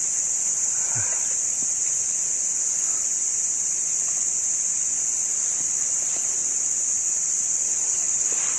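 Steady high-pitched drone of a chorus of insects, such as crickets or cicadas, going on without a break. There is a faint brief sound about a second in.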